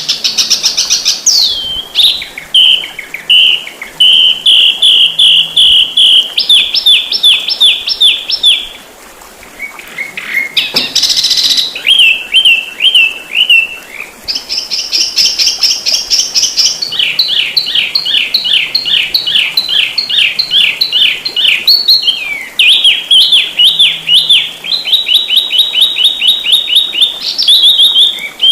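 Songbird singing fast, dense runs of rapid high chirps and trills, with a short break about nine seconds in and a brief rustle-like noise soon after.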